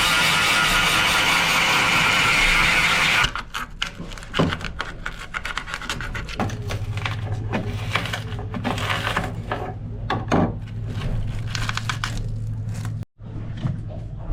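Hand sanding and scraping on a carbon-fibre laminate: irregular rubbing and scraping strokes, after a loud steady hiss in the first three seconds that stops abruptly, with a low hum setting in about six seconds in.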